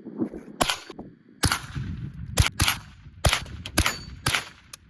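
Marlin Model 60 .22LR semi-automatic rifle firing about seven shots at an uneven pace, several followed by a brief high-pitched ring.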